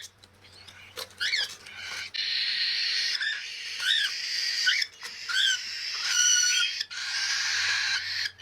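Cockatiel chicks begging for food while being hand-fed: a few short chirps, then from about two seconds in a continuous raspy hissing begging call with up-and-down chirps over it, broken by brief pauses.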